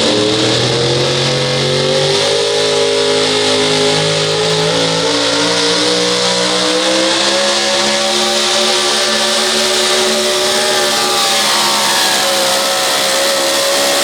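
Competition pulling vehicle's engine at full throttle under load during a pull, its pitch climbing over the first couple of seconds and then holding high and steady, sagging slightly near the end.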